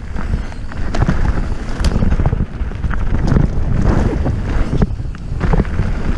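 Wind rushing over the microphone during a fast mountain bike descent, a heavy steady rumble, with scattered rattles and knocks from the bike riding over rough, rocky trail.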